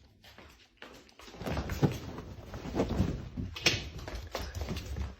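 Scattered light knocks and rustling, with a sharper knock about two seconds in and another near four seconds.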